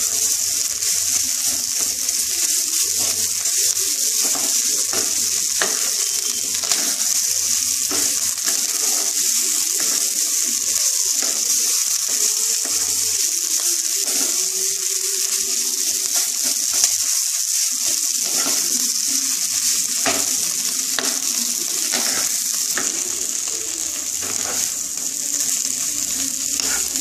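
Potato and vegetable filling sizzling steadily with a high hiss as it fries in a nonstick kadai, while a wooden spatula stirs and scrapes it against the pan now and then. The filling is being cooked down until it comes away from the sides of the pan.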